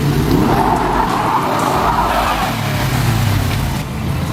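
Car engine revving under load, its pitch rising and falling, with a hiss of tyres churning through snow over the first few seconds.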